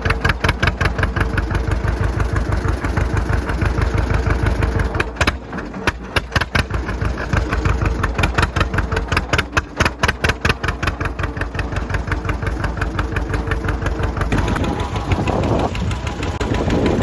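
Tractor engine running under way, with a fast, even beat of exhaust pulses that dips briefly about five seconds in before picking up again.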